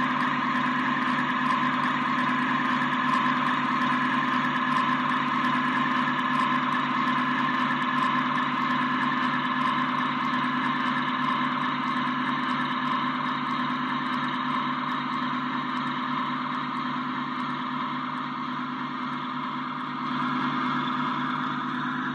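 LGB G-scale model train running on the layout: a steady mechanical hum of the locomotive and wheels on track, holding one pitch and slowly getting quieter.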